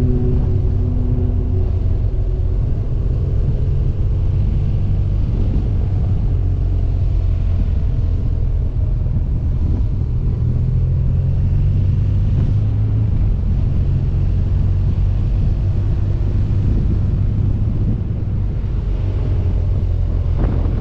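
A BMW R1200 GS Adventure's boxer-twin engine running steadily under way, with a constant low rumble of engine, wind and road noise.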